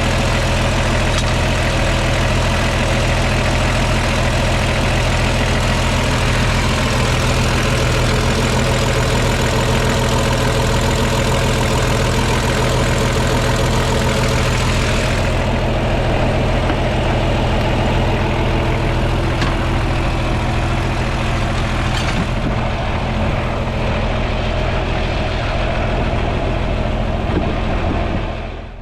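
Large farm engine idling steadily and loudly. The upper hiss thins out about halfway through.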